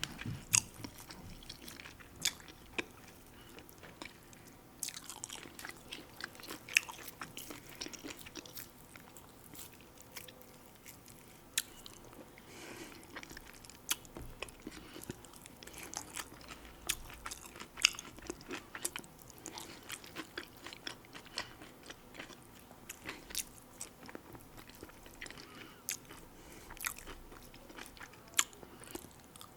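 A person chewing and biting food close to the microphone, with irregular sharp clicks and crunches.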